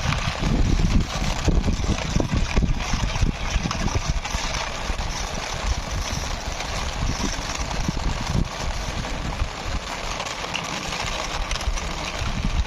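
Small plastic toy wheels rolling and scraping along a rough concrete wall top, a continuous uneven rumble as the toy is pushed by hand.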